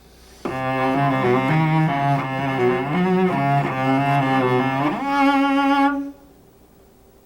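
Solo cello playing a short bowed phrase of several notes, then shifting upward with an audible slide into a held top note, a C sharp taken with the second finger and the thumb on A, which stops about six seconds in.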